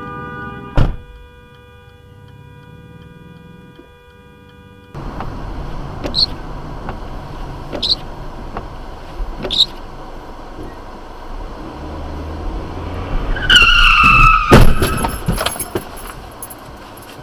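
Car road noise, then tyres squealing in a skid followed by a crash: a burst of loud impacts, the loudest sound here.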